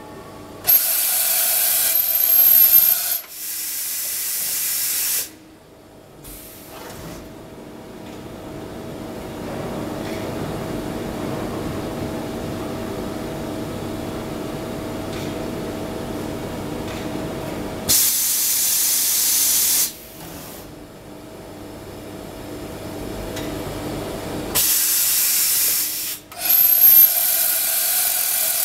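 A machine tool's automatic tool change and tailstock travel. Several bursts of compressed-air hissing, each a second or two long, come with the changer's actions. Between them, from a few seconds in until near the end, a steady mechanical running sound with a faint held tone gradually gets louder as the axis moves.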